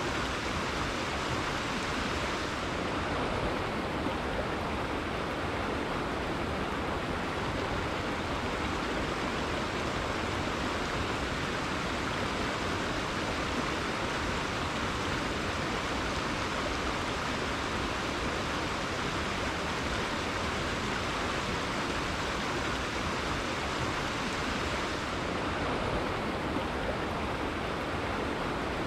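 River water flowing and rushing steadily, an even unbroken hiss of moving water.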